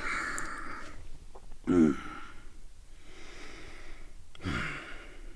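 A person breathing heavily, with two short groans that fall in pitch about two and four and a half seconds in.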